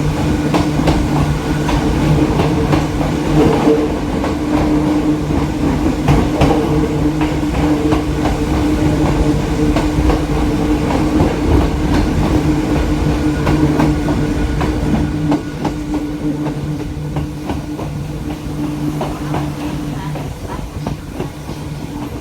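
Hakone Tozan Railway electric train running on the line: a steady hum from the motors with a stream of clicks and knocks of the wheels on the rails, getting somewhat quieter about fifteen seconds in.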